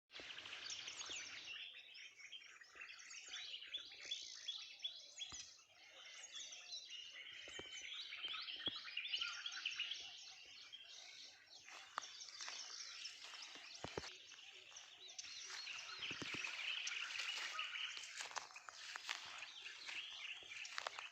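Many birds chirping and calling at once in a dense morning chorus of quick, overlapping high notes, with a few sharp clicks now and then.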